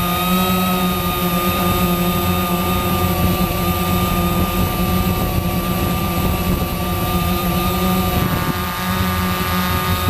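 Quanum Nova quadcopter's brushless motors and propellers buzzing steadily in flight, a chord of steady tones over a low rush. About eight seconds in the tones shift and the level dips briefly, as with a throttle change, then it steadies again.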